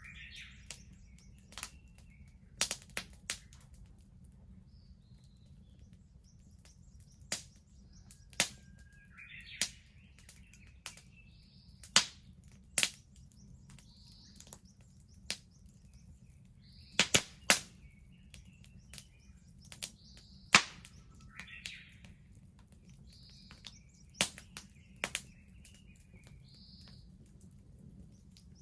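Wood bonfire crackling, with sharp, irregular pops and snaps every second or so. Birds chirp in short calls now and then.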